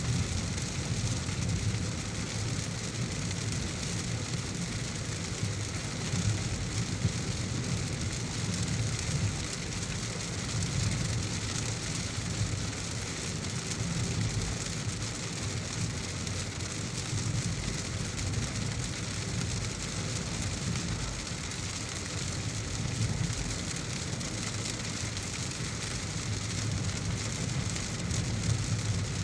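Steady heavy rain hissing on a moving car, over a low, even rumble from the car's engine and tyres on the road.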